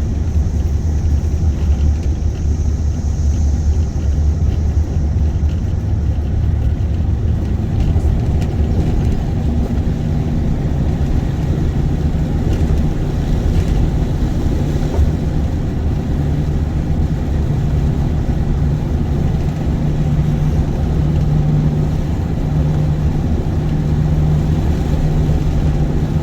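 Car driving along a road, heard from inside the cabin: a steady low rumble of engine and tyre noise, with a low engine hum growing plainer from about ten seconds in.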